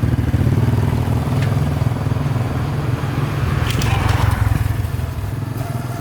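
An engine or motor running steadily, a dense rapid low pulsing.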